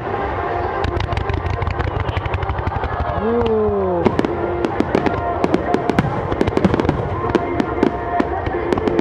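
Aerial fireworks bursting over a continuous low rumble, with many sharp crackles and pops throughout. A short falling cry, like a voice, comes about three and a half seconds in.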